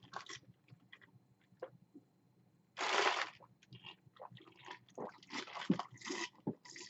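Close-miked chewing and crunching of food: a string of small wet clicks and crackles from the mouth, with one short, loud burst of noise about three seconds in.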